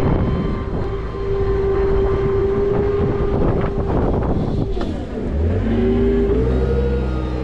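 Strong wind buffeting the microphone, over a steady tone and the running tow truck engine. About five seconds in, a deeper engine hum comes in and the tone rises a step.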